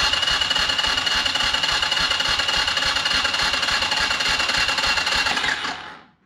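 Electric starter cranking the Mega Moto's 250cc single-cylinder engine for about six seconds without it firing, a steady whine over an even chug, stopping suddenly, with a brief second stab at the very end. It will not catch because there is no spark, which the owner later traces to the CDI box never having been installed.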